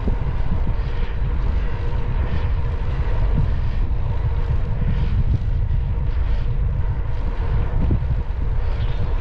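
Wind rumbling on the microphone of a moving bicycle ride, with a faint steady hum underneath.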